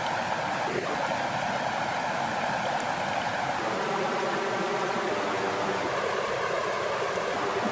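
Water flowing steadily, an even rushing wash of a stream-like flow.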